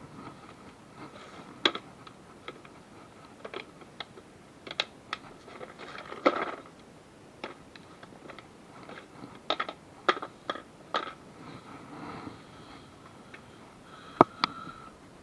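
Irregular clicks, knocks and clinks of hand tools and metal parts being handled during engine-removal work on a car, with one sharper knock near the end and a faint steady tone underneath.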